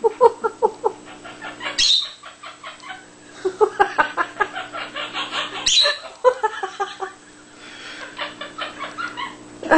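Quaker parrot (monk parakeet) imitating human laughter: several runs of quick chuckling pulses, about five or six a second, broken twice by a short sharp squawk.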